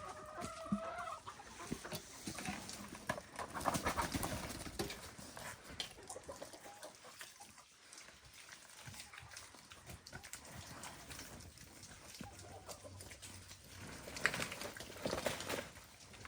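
Chickens clucking, with a short pitched call in the first second, and scattered knocks in between.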